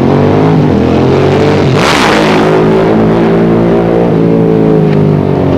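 Motorcycle engines running loud as bikes ride past, the pitch climbing as they rev, with a loud rasping blast about two seconds in.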